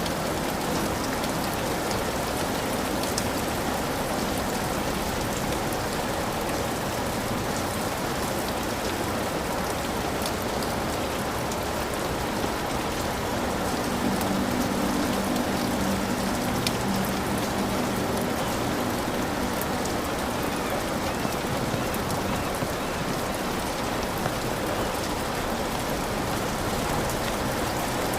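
Heavy rain falling steadily on a hut roof, a dense even hiss with scattered individual drops ticking close by.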